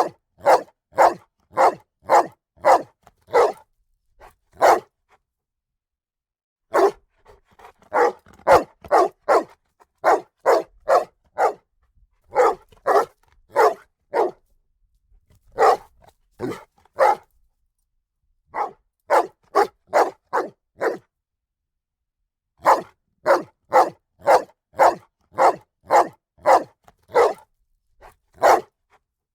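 A dog barking in quick runs of sharp barks, about two to three a second, with short pauses of a couple of seconds between bouts.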